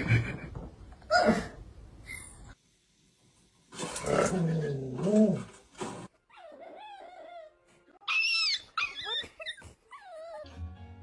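A dog making whining and yipping sounds in short separate bursts, with background music.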